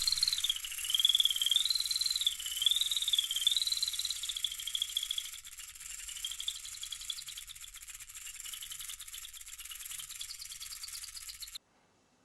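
A high, rapidly pulsing insect-like chirring trill, its pitch wavering up and down about once a second for the first five seconds, then steadier and fainter, cutting off suddenly near the end.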